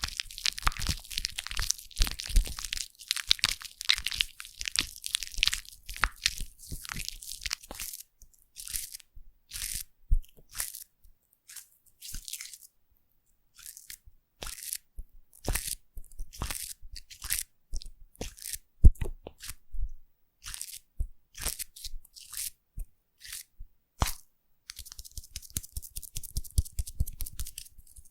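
Foam crackling and popping close to the microphone: a dense crackle at first, thinning to scattered sharp pops with short gaps, then dense again near the end.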